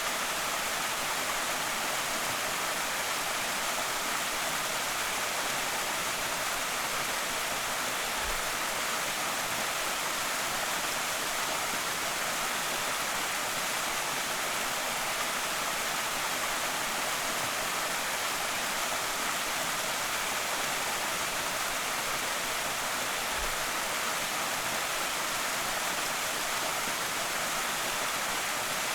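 Waterfall on a small creek: a steady, even rush of falling water.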